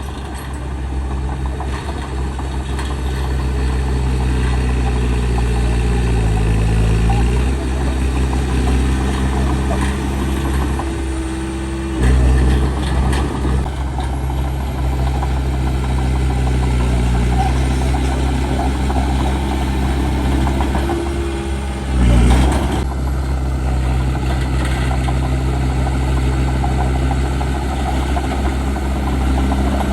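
Heavy diesel engine of earthmoving machinery running steadily, its pitch sagging and recovering about six seconds in and surging louder twice, about twelve and twenty-two seconds in, as it takes and sheds load.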